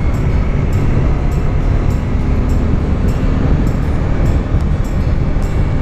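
Bajaj Dominar 400's single-cylinder engine with an SC Project exhaust running at a steady cruising speed, heard from the riding motorcycle under wind noise on the microphone.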